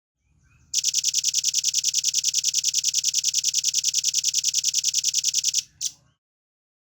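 Velvet-fronted nuthatch giving a rapid, even trill of high notes, about nine a second for nearly five seconds, the fast 'speed rapat' burst kept for tutoring songbirds, ending with one separate short note.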